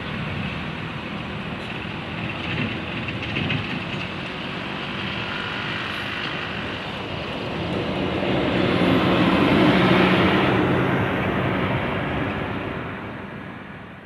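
A heavy road vehicle's engine and tyre noise passing by, growing louder to a peak about ten seconds in and then fading away.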